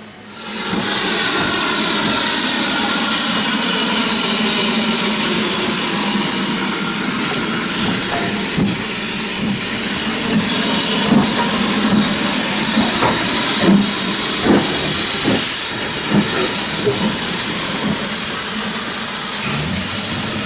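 Steam locomotive letting off steam: a loud, steady hiss that starts suddenly, with a few irregular soft knocks in the second half.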